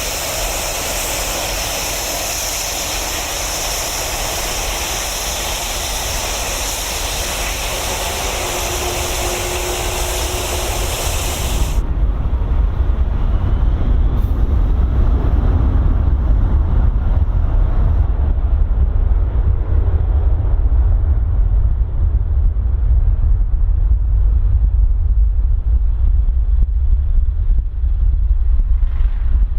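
De-icing fluid spraying onto a Boeing 757 in a loud, even hiss over a low engine rumble; about twelve seconds in the spray stops abruptly, leaving the low engine rumble alone.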